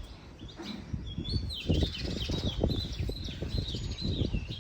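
A bird calling over and over, a quick series of short chirps that slide in pitch, several a second, starting about a second in. Irregular low rumbling runs underneath.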